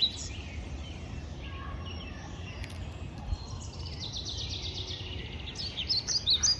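Birds chirping in quick runs of short high notes, loudest near the end, over a steady low background rumble.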